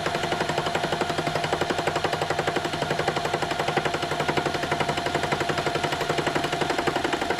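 Metal lathe taking a hand-fed interrupted facing cut with a carbide tool. The tool strikes the work on every revolution, making a rapid, even clatter of about seven knocks a second over the steady running of the machine.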